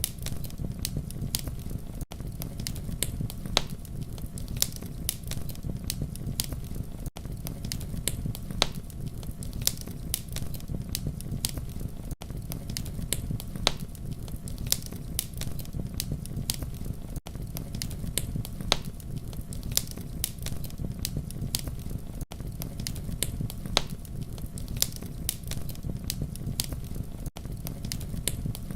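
Wood fire crackling: frequent sharp snaps and pops over a steady low rumble of flames, with a brief dip in level about every five seconds.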